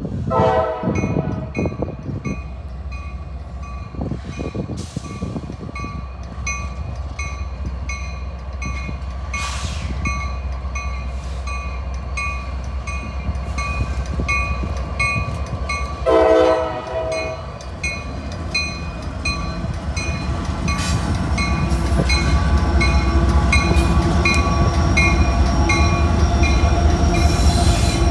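Diesel freight locomotive sounding its horn in two short blasts, near the start and about halfway through, over a bell dinging about twice a second. The train's low rumble grows louder near the end as it draws near and passes.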